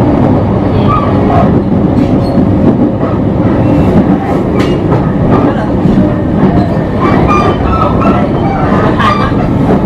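Onboard running noise of a JR East E721 series electric train: a steady rumble of wheels on rail, with some clickety-clack from rail joints.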